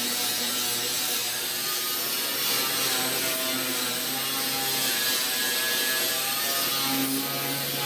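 Angle grinder with a paint-and-rust stripping disc running steadily against sheet metal, its hum wavering slightly in pitch as the load changes, over a constant high hiss.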